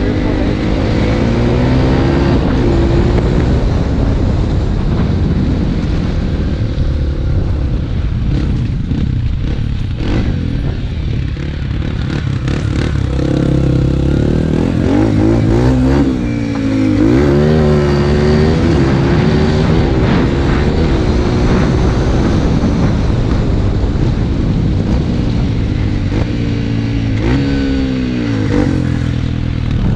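Dirt bike engine running and revving up and down again and again, with the strongest swells of revs about halfway through.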